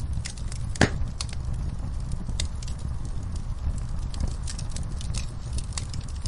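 Wood fire crackling in a fireplace: a steady low rumble of flames with sharp pops and snaps scattered throughout, one loud pop just under a second in.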